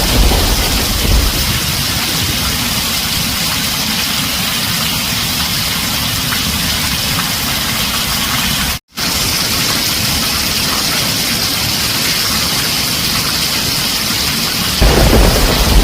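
Heavy rain on a tin roof, a steady dense hiss. A low thunder rumble fades in the first second and another starts near the end, and the sound cuts out for a split second about halfway through.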